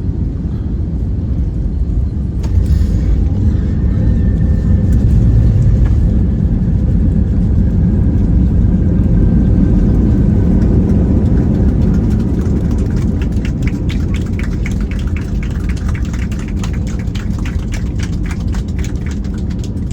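Airliner cabin noise on landing: a loud, deep rumble of engines and runway that swells about two seconds in, with a faint whine falling in pitch, then eases off. Near the end comes a rapid run of regular clicks or rattles.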